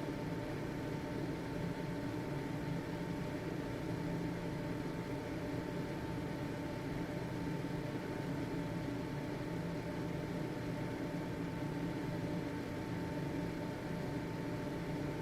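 Household ventilation fan running steadily: an even whooshing hum with a faint steady whine from its motor.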